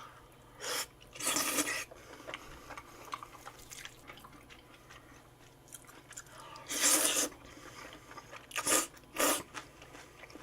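A person eating close to the microphone: chewing and crunching, with a few short, louder crunchy or slurping bursts about a second in, around seven seconds in and twice near nine seconds.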